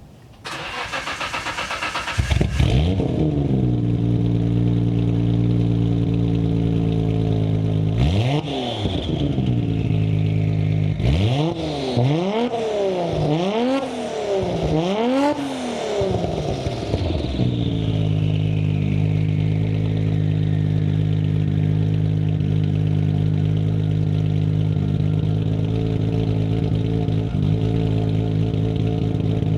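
Nissan Skyline R33 GT-R's RB26DETT twin-turbo straight-six cold-started: the starter cranks for about two seconds, the engine catches with a flare and settles to a steady warm-up idle. One rev blip about eight seconds in, then four blips in a row before it drops back to idle.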